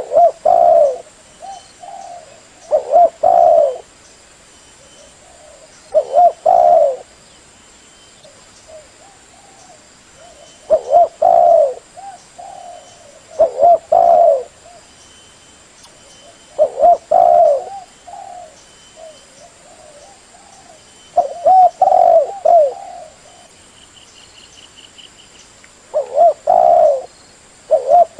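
Spotted dove (tekukur) cooing: a loud, repeated phrase of low coos every few seconds, with fainter coos in between.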